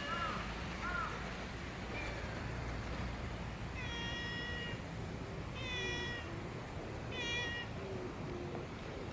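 A cat meowing repeatedly: two short meows in the first second or so, then three longer meows about four, six and seven and a half seconds in, over a steady low background rumble.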